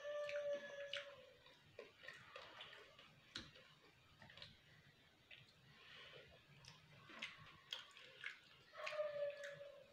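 Close-miked chewing of pizza, with soft wet mouth clicks and smacks. A short steady high tone sounds at the start and again near the end.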